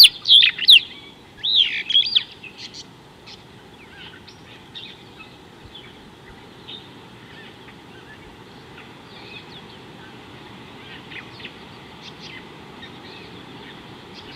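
Small birds calling: a run of loud, quick whistled notes sliding up and down in the first two seconds, then only faint scattered chirps over a steady low background hiss.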